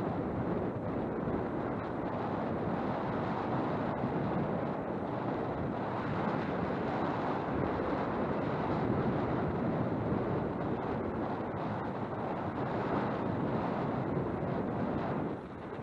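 Wind buffeting a helmet-mounted camera microphone while riding, a steady rushing noise that eases briefly near the end.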